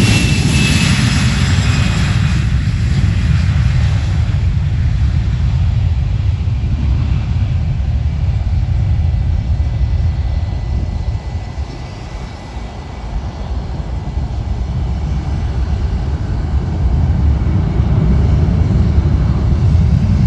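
Airplane passing close by: a high whine falling in pitch over the first couple of seconds, then a steady low rumble that dips about halfway through and builds again near the end.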